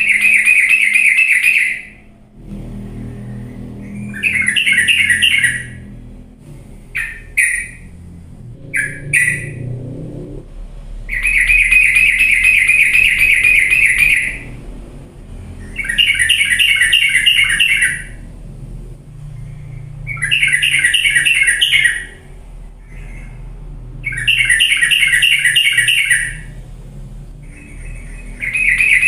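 Yellow-vented bulbul (cucak trucuk) song repeated over and over: each phrase is a rapid run of notes lasting about two seconds, with gaps of about two seconds between phrases, and a few short chirps between the early phrases.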